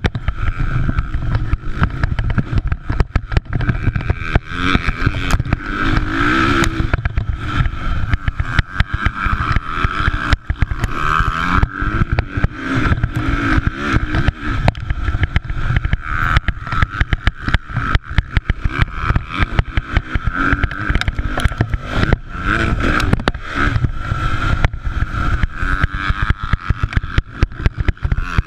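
Motocross dirt bike engines running hard, revving up and down through the gears, over a constant rough crackle.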